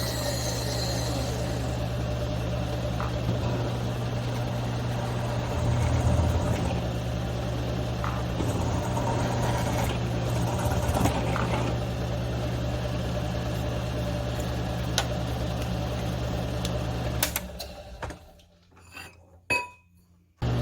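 Milling machine's electric motor running steadily with a hum and a few light knocks, then shutting off about three-quarters of the way through, leaving near quiet with a few small clicks.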